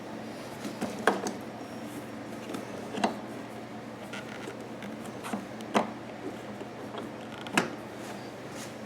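Hands working a fuel hose and small hose clamp onto a generator's fuel selector valve fitting: scattered sharp clicks and knocks, the loudest about a second, three, six and seven and a half seconds in, over a steady low hum.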